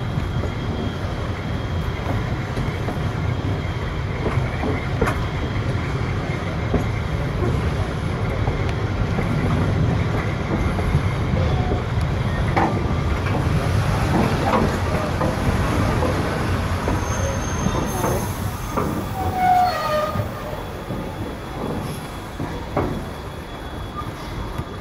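Passenger carriage of a slow-moving train running on the rails: a steady low rumble of the wheels with scattered clicks, and a brief wheel squeal about twenty seconds in. The running gets quieter near the end.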